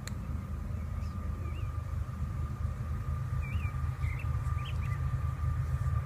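Steady low rumble outdoors, with several short bird chirps from about one and a half to five seconds in and a faint steady high whine.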